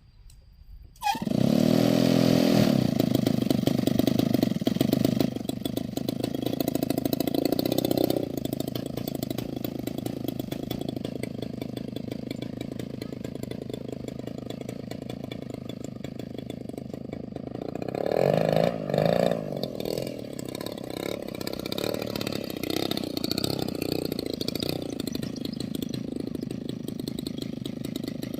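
A Prolux electric starter spins up a 35cc DLE two-stroke gasoline model-aircraft engine about a second in, and the engine catches almost at once and runs. It is throttled back a little around five and eight seconds in, is revved up twice briefly around eighteen seconds in, and then settles to a steady idle.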